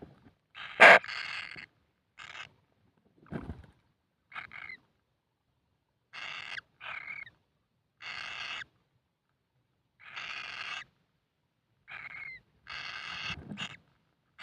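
Kingfisher chick giving short, harsh rasping calls, about nine of them, each under a second and repeated every one to two seconds. A sharp click about a second in and a low thud a few seconds in stand out among the calls.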